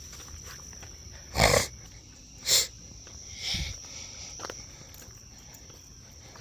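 A steady high-pitched insect drone, with two loud short rushes of noise about a second apart near the start and a softer one after.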